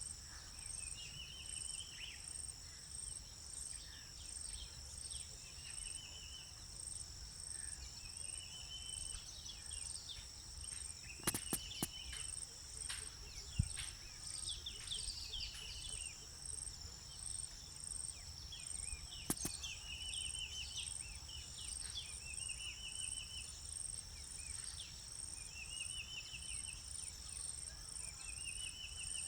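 Steady high-pitched shrilling of insects, with a short trilled bird call repeated every two to three seconds over it. A few sharp clicks come about halfway through, over a low background rumble.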